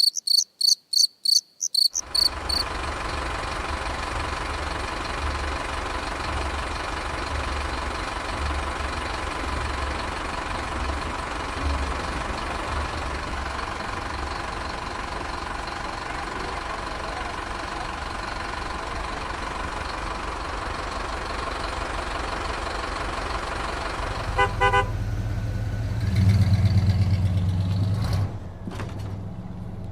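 Heavy vehicle engine running steadily with a low throb, opened by a couple of seconds of rapid high chirping. Near the end come a short run of beeps and then a loud, low horn blast lasting about two seconds.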